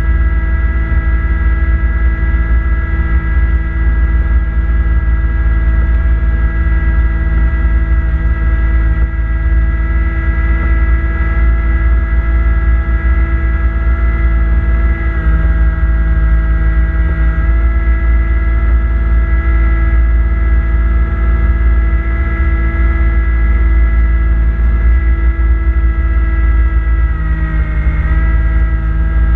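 Kubota B2650 tractor's three-cylinder diesel engine running steadily at working speed while driving its front-mount snowblower. The pitch sags briefly near the end as the engine takes load, then recovers.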